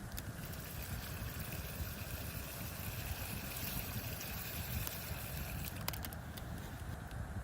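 Wind buffeting the microphone in a steady low rumble, with a brighter hiss through the middle and a few faint clicks about six seconds in.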